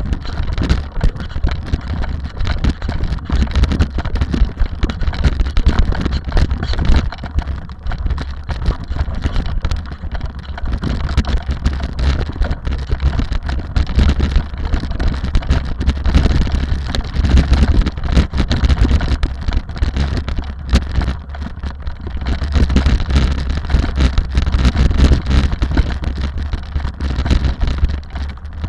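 Rally car driving, its engine and road noise mixed with a heavy, choppy rumble of wind buffeting the microphone.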